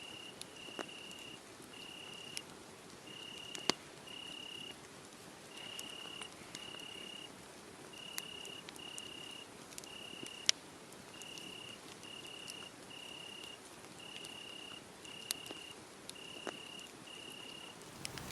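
A cricket chirping: a steady stream of short, same-pitched trills about a second apart, which stop near the end. Now and then a sharp pop from a crackling wood fire cuts through.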